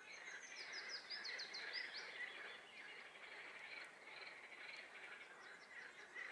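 Faint, steady chorus of frogs calling in a swamp. Over it, a songbird sings a quick run of high falling notes during the first two seconds and a shorter run near the end.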